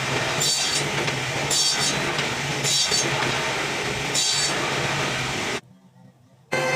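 Wood being sawn: a steady hum with a harsher stroke every second or so, stopping abruptly about a second before the end.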